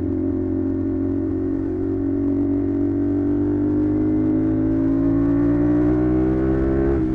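CFMoto 450SR parallel-twin engine running through an SC-Project exhaust while riding, holding a steady note and then rising gradually in pitch as the bike gains speed, with a brief dip in pitch near the end.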